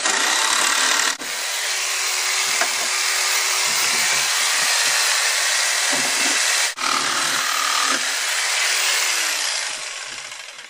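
Power tool cutting away part of a plastic laundry detergent bucket, its motor running with a high whine. It starts abruptly, pauses briefly twice, about a second in and about two-thirds through, and winds down near the end.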